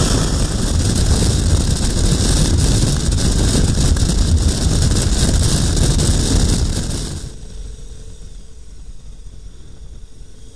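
A KTM 1090 Adventure R motorcycle riding at speed: loud wind and road rush over the engine. It drops sharply about seven seconds in to a faint steady hum.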